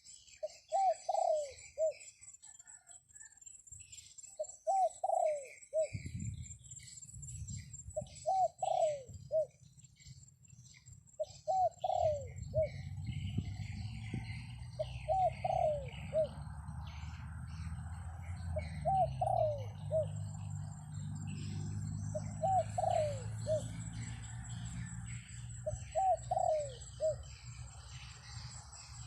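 A dove cooing a short, low phrase of a few notes about every three and a half seconds, eight times, over a steady high insect trill and scattered chirps of small birds. A low wind rumble comes in about six seconds in.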